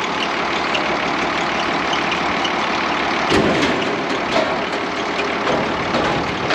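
Farm vehicle engine running steadily at idle, with a single clunk a little over three seconds in.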